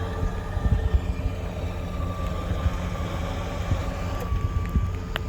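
Electric winches whining steadily as they pull under load, over the low rumble of a running engine. One of the whining tones drops out about four seconds in.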